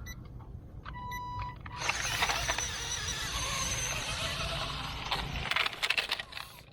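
Small radio-controlled toy vehicle: a short electronic beep, then a few seconds of hissing whir from the running toy, ending in a quick rattle of clicks.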